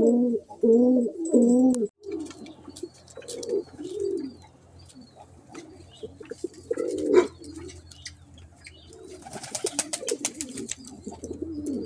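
Domestic pigeons cooing: loud, close coos in the first two seconds, then softer repeated coos. About nine seconds in there is a quick run of rustling taps.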